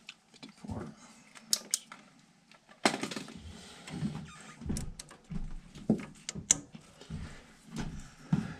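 Irregular clicks, knocks and light clatter of hands handling parts and tools on a gas heating unit, with a sharper rattle about three seconds in.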